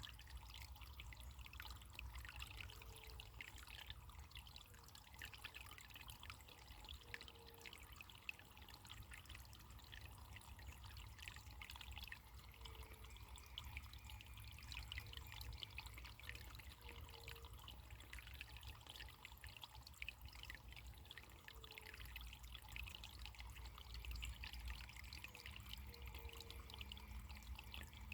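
Faint running water trickling steadily, a stream or brook with a light splashing babble.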